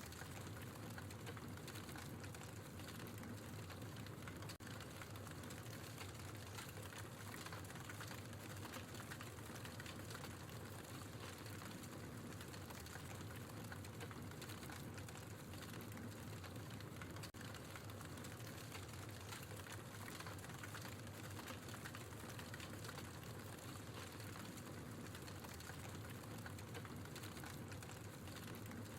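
Wood logs burning in a fireplace: a steady soft hiss with frequent small crackles and pops.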